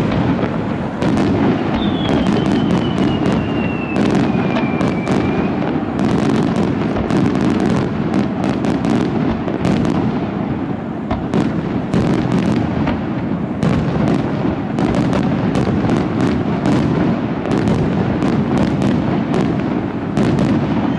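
Fireworks display firing in rapid succession: a continuous rumble of bursts packed with sharp cracks and crackles. A whistle falling in pitch runs from about two seconds in to about five seconds in.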